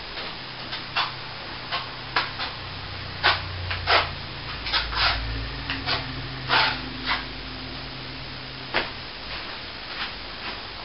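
Plastering tools working a wall: a string of short, irregular scrapes and knocks, with a low steady hum under most of it.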